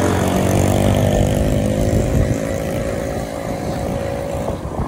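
Motorcycle engine running at a steady cruising speed, heard close up from the rider's seat, its note holding level.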